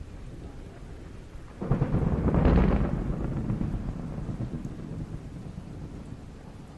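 A thunderclap: a sudden crack about one and a half seconds in, peaking a second later, then a low rumble that fades slowly.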